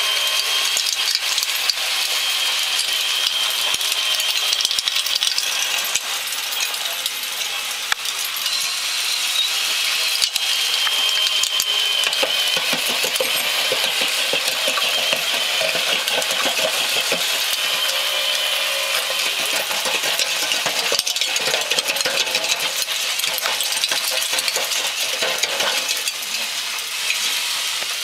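Bucket wheel excavator robot digging: a continuous dense clatter of small clicks and rattles as the buckets scrape up and tip gritty regolith simulant, over a faint steady whine from its drive motor.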